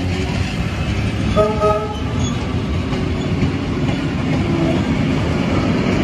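Tait electric suburban train running past and pulling away, a steady rumble of wheels and motors on the track, with a brief toot of a horn about a second and a half in.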